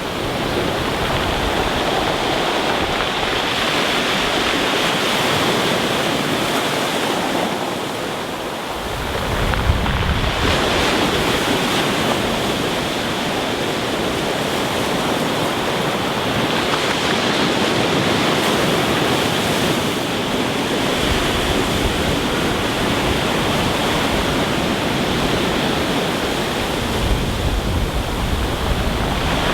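Rough sea surf breaking and washing on a stony beach, a steady rush of waves. A deeper rumble swells in about nine seconds in and again near the end, as heavier waves come in or wind hits the microphone.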